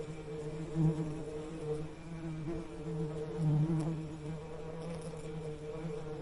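Bees buzzing steadily, a low drone that swells and fades as they move, loudest in swells about a second in and again about three and a half seconds in.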